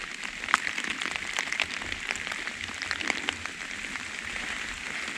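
Steady rain falling, an even hiss with many sharp ticks of drops striking close by.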